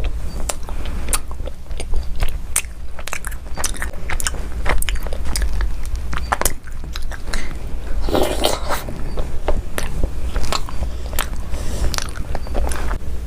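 Close-miked biting and crunching of chocolate: a run of sharp, crisp cracks and chewing, busiest about eight seconds in.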